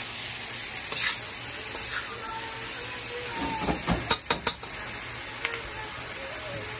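Onions and garlic frying in oil in a wok, sizzling steadily, with a utensil stirring and three quick knocks against the wok about four seconds in.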